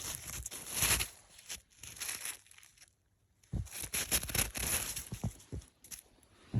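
Footsteps crunching through snow, uneven steps with a short pause near the middle.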